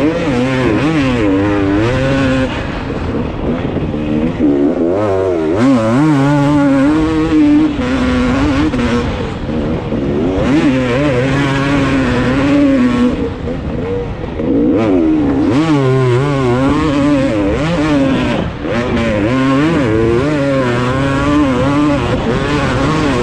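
Dirt bike engine being ridden hard, the revs climbing and dropping again and again as the rider works the throttle and gears.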